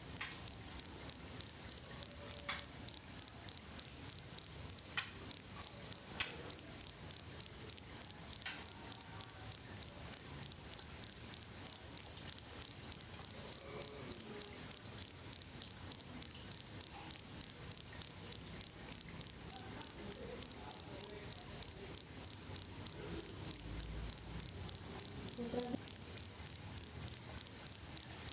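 A cricket chirping steadily in an even, unbroken rhythm of about three short high-pitched chirps a second.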